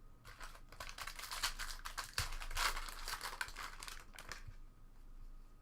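Plastic trading-card wrapper crinkling as it is handled: a dense run of crackles lasting about four and a half seconds, stopping about a second before the end.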